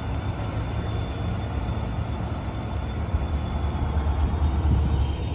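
Steady low rumble of a train running on the line, with a faint steady high tone above it.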